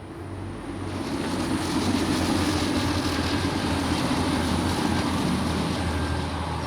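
A train passing on the line: its rumble and rushing noise build over about two seconds, hold, then ease off near the end.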